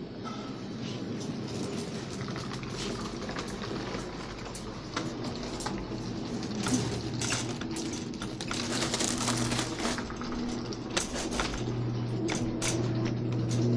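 Supermarket ambience: a steady low hum with irregular clicks and rattles that get busier and a little louder in the second half.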